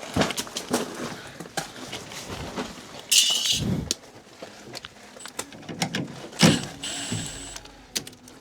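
Hands-on installation work on sheet-metal duct and its hanging strap: scattered knocks, clicks and rattles of metal being handled. There is a short hissing scrape about three seconds in and another scraping stretch near seven seconds.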